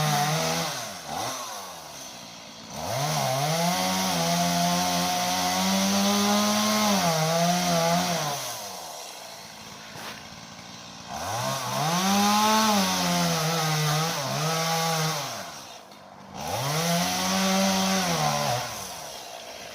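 Chainsaw cutting into a pine trunk in three long runs. The engine revs up and holds high under load, dropping back toward idle between runs.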